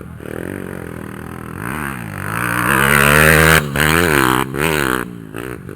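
Dirt bike engine revving hard, its pitch rising and falling several times as it accelerates and shifts. It is loudest in the middle, with a few short breaks near the end.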